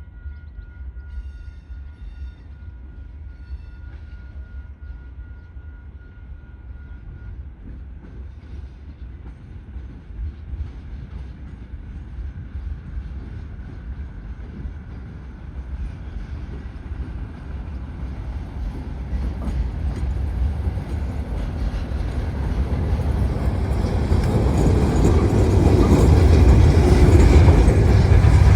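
DSG3059, a diesel-electric shunting locomotive, running with a deep, continuous rumble that grows steadily louder over the last ten seconds or so.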